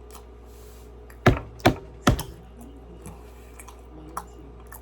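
Close-up eating sounds: three loud, sharp mouth smacks and clicks in quick succession about a second in, then a few fainter clicks, as the doughnut is chewed.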